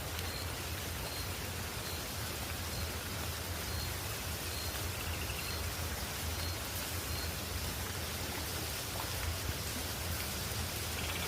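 Steady rushing water noise, a river flowing or rain falling, with a faint high chirp repeating about twice a second through the first half.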